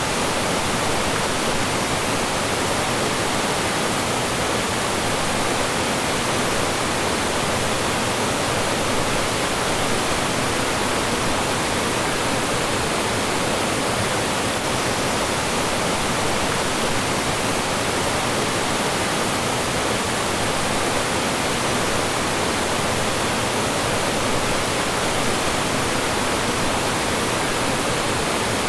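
Mountain stream rushing and splashing over rocks and small falls, a steady, even roar of water without pause.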